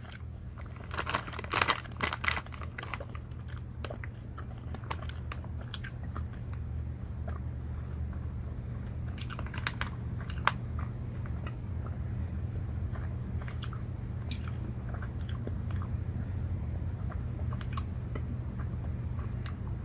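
Chewing and biting of sour gummy bears, with soft sticky mouth sounds and scattered small clicks, plus sharp crinkles of the plastic candy bag about a second in and again around ten seconds. A steady low hum runs underneath.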